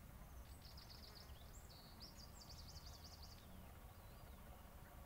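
Near silence with faint bird chirping: a few quick high trills in the first three seconds or so, over a low steady background rumble.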